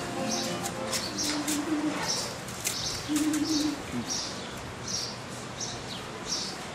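A small bird chirping over and over, about three high chirps every two seconds. Two short, low cooing notes come in the first half, like a dove's.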